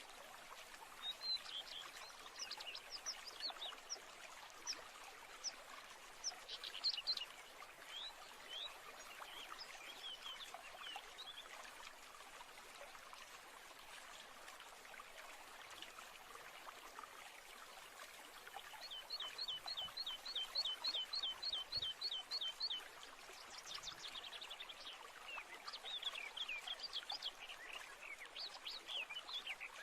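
Wild birds chirping and singing over a steady trickling stream. About two-thirds of the way through, one bird repeats a quick note about four times a second for several seconds.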